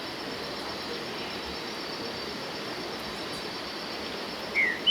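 Steady outdoor rushing background with a faint, continuous high insect drone; near the end a songbird gives two short whistled notes that slide down in pitch.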